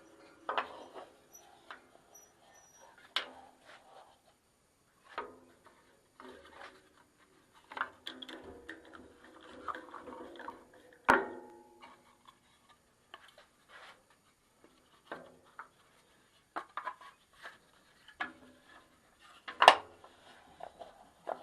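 Scattered knocks and clacks of wooden pieces being handled and set down, irregular and separate, with the loudest knocks about eleven seconds in and near the end.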